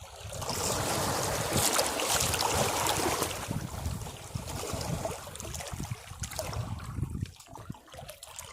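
Sea waves washing against rocks: a wave surges in about half a second in, its hiss loudest around two to three seconds, then drains back and fades toward the end.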